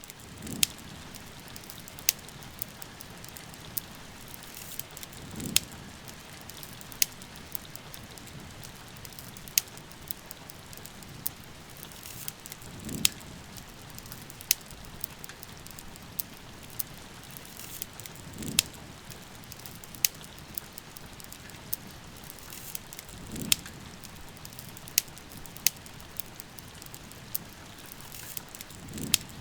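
Steady rain hiss mixed with a crackling wood fire: sharp, irregular pops and snaps a second or two apart. A soft low whoosh rises and fades about every five or six seconds.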